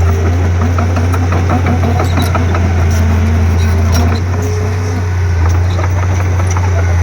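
Bulldozer diesel engine running steadily, easing off slightly for about a second from around four seconds in before coming back up.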